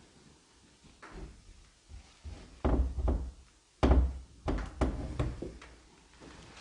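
Several heavy thuds and knocks, the two loudest about two and a half and four seconds in, followed by a few lighter knocks.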